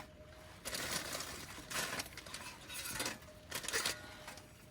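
Cooking things being handled and set out: four or five short bursts of rustling and clinking, roughly a second apart.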